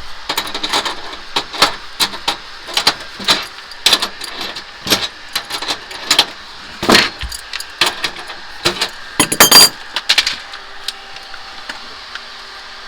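Irregular clicks, clinks and knocks of metal tools and fittings being handled during air-conditioner installation work, with a louder clatter about nine and a half seconds in. After about ten seconds the clicking thins out and a faint steady hum remains.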